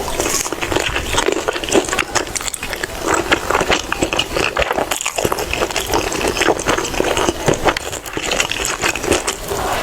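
Someone eating noodles: steady chewing with a dense run of small wet clicks and crackles.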